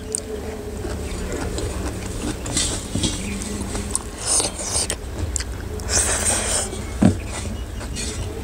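Close-miked eating sounds: chewing a mouthful of rice and curry with wet mouth smacks every second or two, and fingers mixing rice on a metal plate, with one sharp knock about seven seconds in, over a low background rumble.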